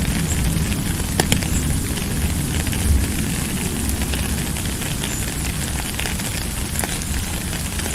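Steady rain: a dense, even patter of fine crackling drops over a deep low rumble, with a few sharper drip clicks.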